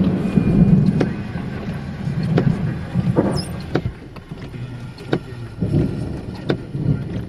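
Rainstorm noise: a low rumble that fades over the first four seconds, with sharp ticks scattered through it.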